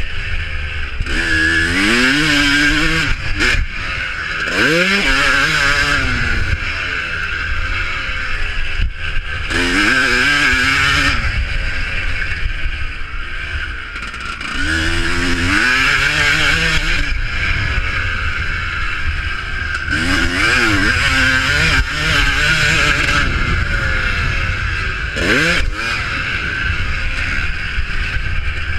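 Motocross bikes racing, engines running hard and revving up in rising sweeps again and again, several machines overlapping.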